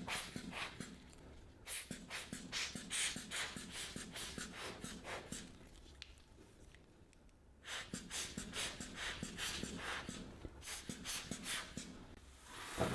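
Rhythmic scrubbing strokes on a plastic figure, about three or four a second, in runs broken by a longer pause in the middle.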